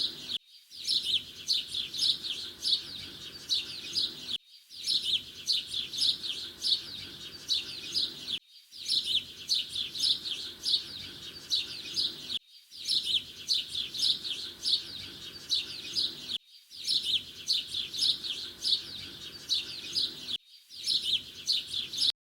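Domestic canary singing fast chirps and trills. The same stretch of song repeats about every four seconds, each time after a brief silent break, as in a looped recording.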